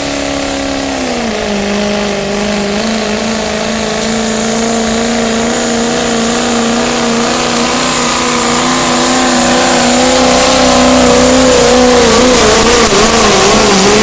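Pulling truck's engine running flat out under load during a pull, held at a steady high pitch after a slight dip about a second in, growing gradually louder. Near the end the pitch wavers up and down as the revs fluctuate.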